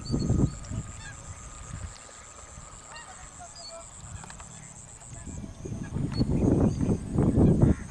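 Short bird chirps over a steady high insect drone, which stops about five seconds in. Louder low rumbling bursts come at the very start and again through the last two seconds.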